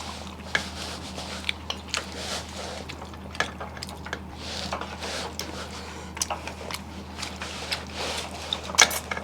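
Chewing and wet mouth sounds of people eating a meal of rice and fish: irregular soft smacks and small clicks, over a steady low hum.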